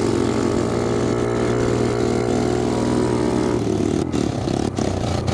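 Small single-cylinder four-stroke pit bike engine running under way at steady revs, then backing off about three and a half seconds in.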